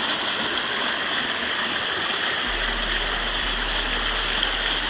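Steady rushing of running creek water, an even noise with no breaks.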